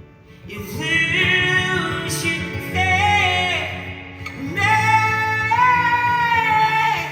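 Live band music: a voice singing long, sliding notes over guitar, with a short break partway through before a second phrase holds one long note.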